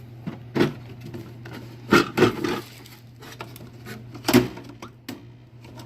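Knocks and clunks from handling the plastic dehumidifier unit while reaching for its filter: one knock about half a second in, a cluster of them around two seconds, and another past four seconds, over a steady low hum.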